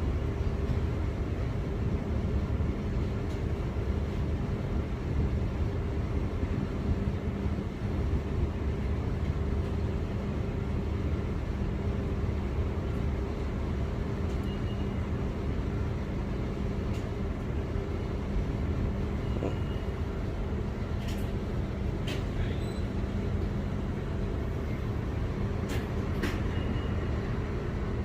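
A vehicle engine idling steadily, a constant low rumble with a steady hum, with a few faint clicks about three-quarters of the way through.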